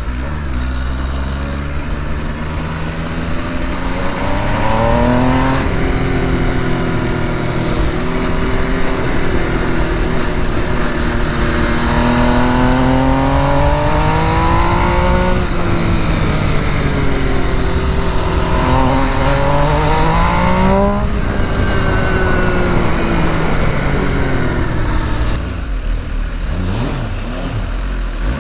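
Sport motorcycle engine pulling hard on a track, its pitch climbing and dropping off several times as the rider accelerates and backs off, with steady wind rush over it.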